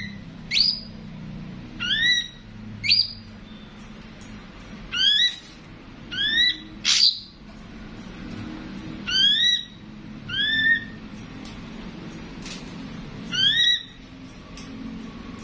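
Ashy drongo calling: a series of short, upward-sweeping notes, about nine of them, spaced unevenly one to three seconds apart.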